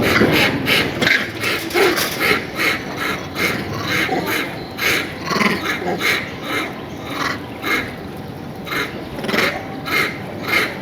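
An animal calling over and over in short, rapid calls, about three a second.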